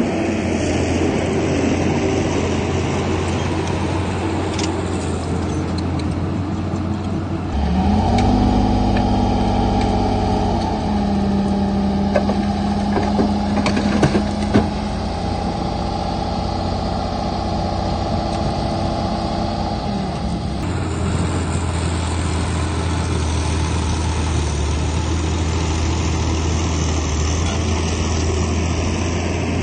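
Heavy diesel engines of a Komatsu bulldozer and dump trucks running. From about seven seconds in to about twenty-one seconds a different engine takes over: it rises in pitch at the start, then holds steady, with a few sharp knocks near the middle.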